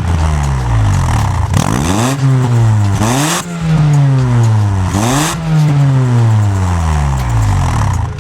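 Honda Step Wagon RF1's 2.0-litre inline-four being free-revved at standstill, heard through its exhaust. It makes three quick blips of the throttle, each rising sharply and then falling slowly back toward idle.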